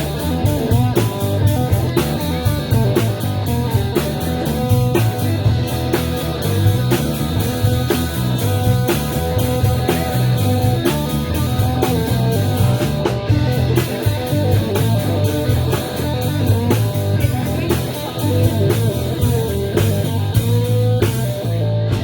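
Rock band playing an instrumental stretch of a song: electric guitar over drum kit and bass, with a steady drumbeat.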